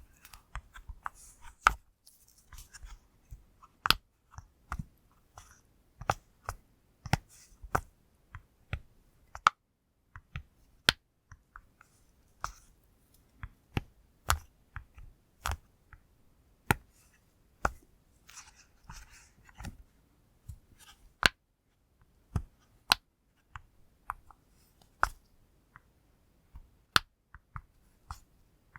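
Bubbles of a silicone push-pop fidget toy being pressed one at a time, close up: sharp, irregular pops about one or two a second, with faint scratchy rustling between some of them.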